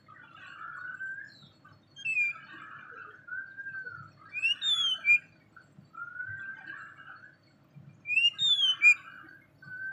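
A black-and-white songbird calling: soft slurred whistles with chattering between them, broken three times by louder, sharp falling whistles, about two, four and a half, and eight seconds in.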